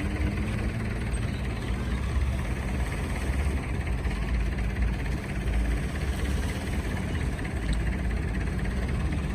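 Old farm tractor engine running steadily at low revs, a continuous low rumble.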